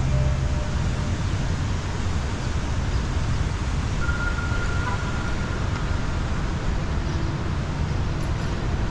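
Steady outdoor city ambience: a constant rushing noise with road traffic in it, and a faint held tone for a second or so about four seconds in.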